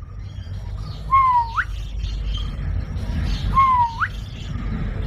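A parrot gives two whistled calls about two and a half seconds apart. Each call dips slightly and then sweeps sharply upward. A low rumble runs underneath.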